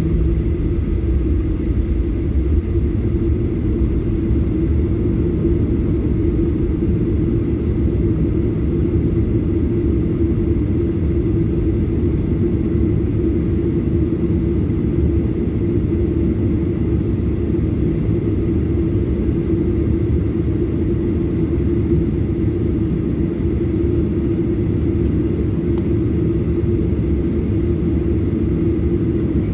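Steady drone and rumble of a Boeing 737-800's CFM56 engines heard from inside the passenger cabin, with a constant hum and an even level that neither rises nor falls.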